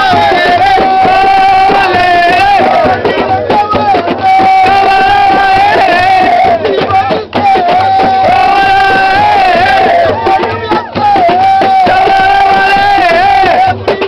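Nubian folk song performed by a group of men singing together with drum accompaniment, loud, with short breaks between phrases.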